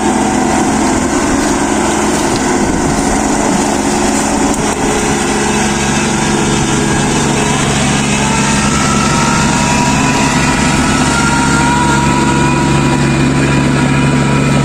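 Kubota DC-35 combine harvester running steadily, its diesel engine and threshing machinery making a dense, continuous mechanical noise. A lower hum and faint higher whining tones join about halfway through.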